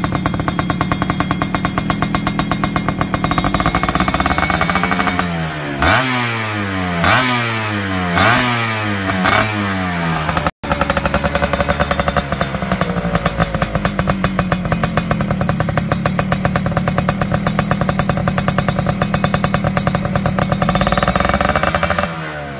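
Yamaha F1ZR's two-stroke single-cylinder engine running through a racing exhaust: a steady, rapidly pulsing idle, blipped up in four quick revs a few seconds in, then settling back to idle.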